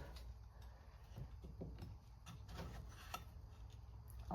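Faint, irregular small clicks and taps from handling a chainsaw's recoil starter while its new pull rope's knot is pulled tight, over a steady low hum.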